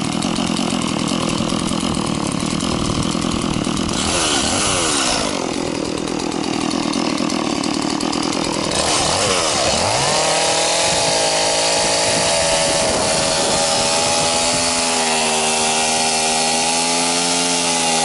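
Chainsaw running under load, its pitch sagging and picking up again twice, then held steady at high revs for the last several seconds.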